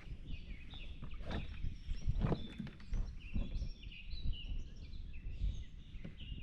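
Several small birds chirping and singing in short, high notes, over a low uneven rumbling noise, with a few sharp knocks.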